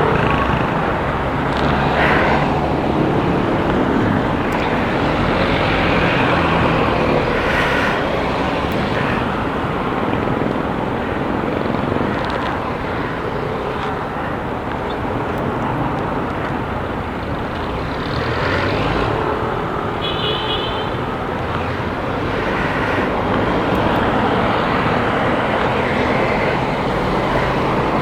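Motorcycle riding in traffic: its engine running steadily under road and traffic noise, heard through a helmet camera's external microphone in a dead-cat windscreen. A short high beep sounds about twenty seconds in.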